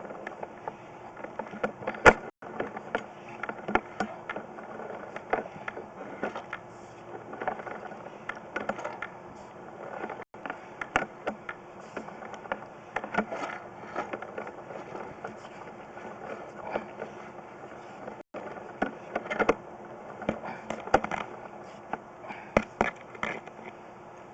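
Irregular scraping with many sharp clicks and knocks, from a plumbing inspection camera's push cable and camera head working through a drain-vent pipe.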